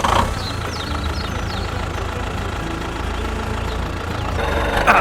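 Engine idling with a steady low rumble. Faint high chirps sound in the first second or so.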